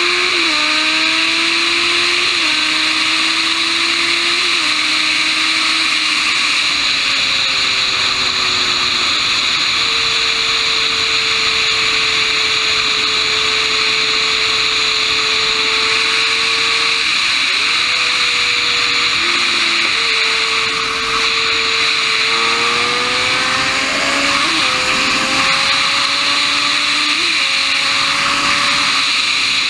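Kawasaki Ninja 1000 inline-four engine at speed under heavy wind rush on the mic. Its note climbs and drops back with each upshift, holds a steady pitch through the middle with a brief dip, and climbs through the gears again near the end as the bike accelerates hard.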